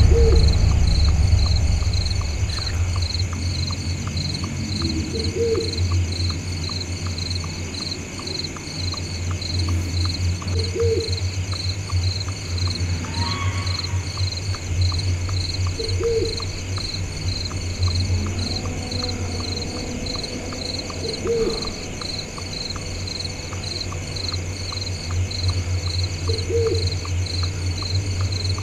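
Night ambience: insects chirring steadily, with an owl hooting once about every five seconds over a steady low drone.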